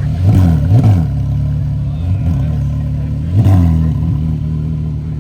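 Porsche Carrera GT's V10 idling, revved with short throttle blips: two quick ones right after each other, a small one about two seconds in, and another about three and a half seconds in.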